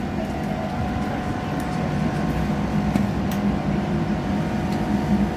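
Passenger train running between stations, heard from inside the carriage: a steady drone with held engine tones under the rumble of the wheels on the track, and a few faint ticks.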